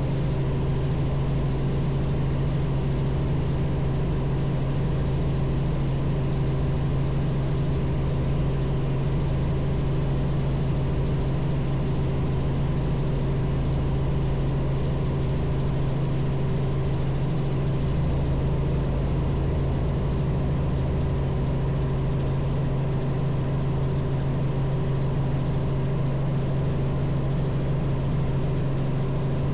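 Robinson R44 helicopter running steadily, heard as a constant drone of engine and rotors with a strong low hum.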